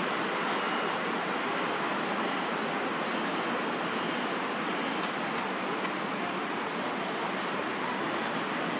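Fledgling crested goshawk calling over and over, a short high rising note about every 0.7 s, over steady background noise.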